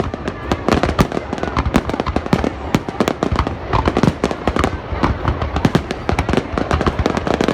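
An aerial fireworks display going off: a rapid, continuous string of sharp bangs and crackles, several a second, with no pause.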